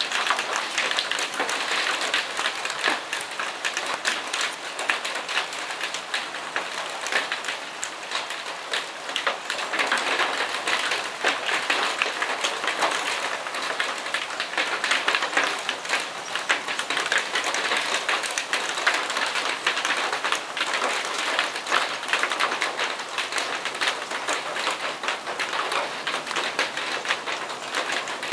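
Heavy rain falling steadily, a dense patter of countless drops hitting hard surfaces.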